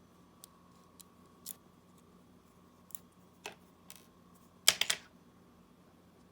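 Small, sharp clicks and taps from handling the opened smartwatch and its small parts with tools, scattered one at a time, with a quick cluster of louder clicks about four and a half seconds in.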